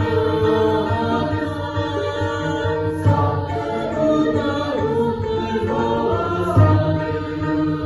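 Mixed student choir singing a Sundanese kawih in parts, with long held notes.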